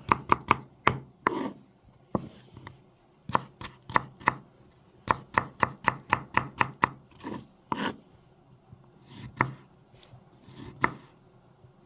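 Kitchen knife chopping potatoes on a cutting board: quick runs of sharp strikes, about five a second, broken by short pauses, with a few single cuts near the end.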